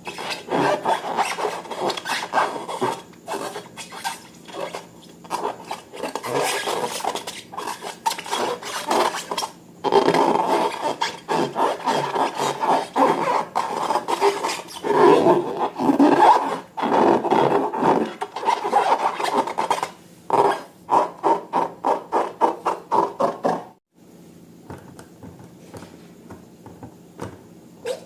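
Slime being mixed and squeezed by hand: rapid, irregular sticky crackles. Near the end it breaks off briefly, then comes back quieter and more spaced out.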